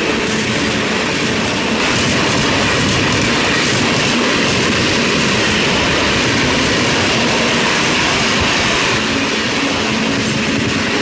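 Indian Railways express passenger coaches passing close by at speed: a steady, loud rush of wheel and rail noise.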